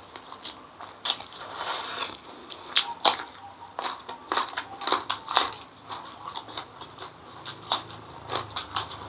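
Close-miked eating sounds: wet chewing and lip smacks with many irregular sharp clicks and crunchy bites, as spicy noodles are chewed and a small raw eggplant is bitten into.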